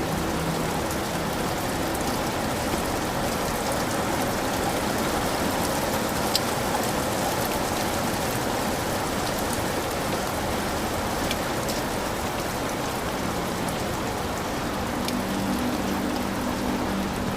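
Heavy rain falling steadily, a dense even hiss with scattered sharp drip ticks. Faint low steady tones come in during the last few seconds.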